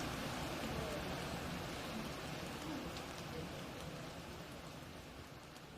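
Rain pattering and dripping in a forest, a steady even patter with scattered single drops, fading out gradually toward the end.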